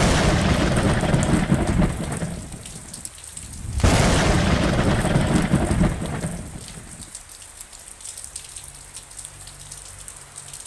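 Steady rain pattering with two rolls of thunder over it. The first starts abruptly and lasts about two seconds; the second starts about four seconds in and fades over about two and a half seconds, leaving the rain alone.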